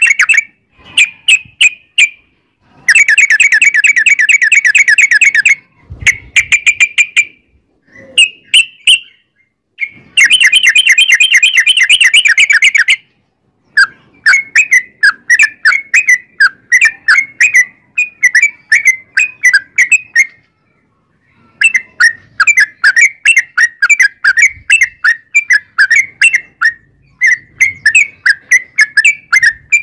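Yellow-vented bulbul (trucukan) song: loud, long, rapid rolling trills (the 'ropel') in bursts of two to three seconds, followed by a long run of short quick chirps, several a second, with brief pauses.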